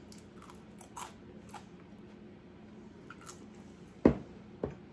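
Faint crunches of someone biting and chewing crisp air-fried French fries. About four seconds in, a small glass bowl is set down on the countertop with a sharp knock, followed by a lighter knock.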